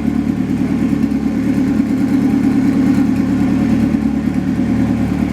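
Turbocharged Honda drag car's four-cylinder engine idling steadily.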